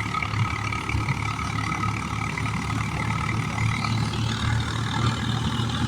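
Tractor diesel engine running steadily at a constant speed, with an even low throb.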